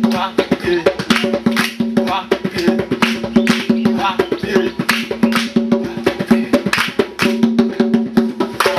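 Percussion-led music: rapid, dense drum and wood-block strikes in a driving rhythm over held pitched notes.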